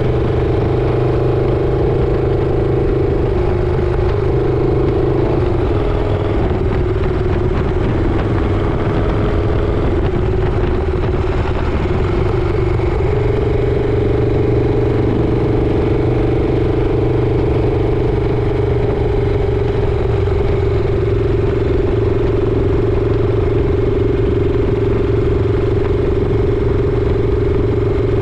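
Motorcycle engine running steadily while riding. The engine note dips about four seconds in and rises again around thirteen seconds in.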